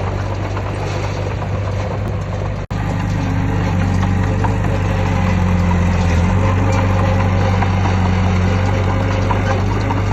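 Heavy construction machine's diesel engine running steadily with a low drone. The audio drops out for an instant a little over two seconds in.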